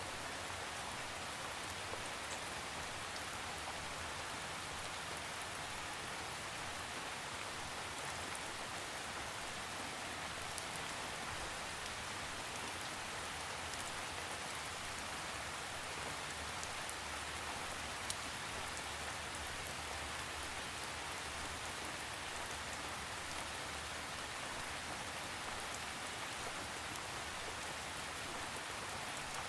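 Steady rain falling on a surface, an even hiss of drops with no thunder, and a few individual drop ticks heard now and then.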